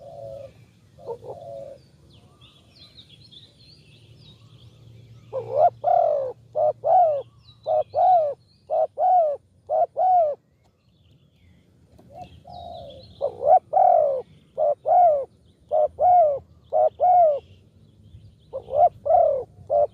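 Spotted dove cooing: two runs of repeated short coos, the first starting about five seconds in and the second about twelve seconds in. Small birds chirp faintly in the background.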